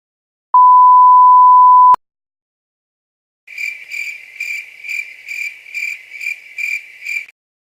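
A steady, single-pitch censor beep lasting about a second and a half, then, after a gap, the 'awkward silence' crickets sound effect: about ten even, high chirps, roughly two and a half a second.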